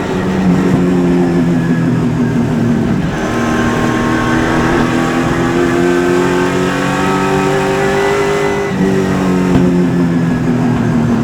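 Super Late Model race car's V8 engine heard from inside the car under racing throttle. The engine note climbs, drops sharply about three seconds in as the throttle is lifted, climbs again, and drops once more near the end.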